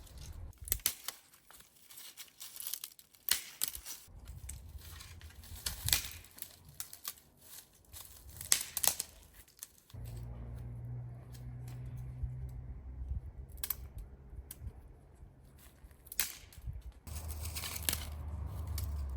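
Close handling sounds: a run of sharp crackles, crinkles and tearing. About halfway a steady low hum starts under them, with a few more scattered clicks.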